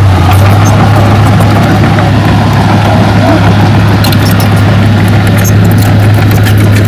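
Heavy earthmoving machine's diesel engine running steadily at a constant pitch, with light scattered clicks and clatter over it.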